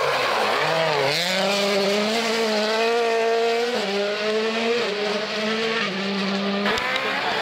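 Rally car engine running hard on a mountain stage: its pitch dips about a second in, then holds high and steady with a few sudden steps in pitch, and stops shortly before the end.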